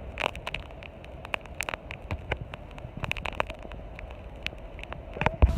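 Tornado storm noise in amateur phone footage: wind rumbling on the microphone, with many short sharp clicks and patters scattered throughout, and a louder knock near the end.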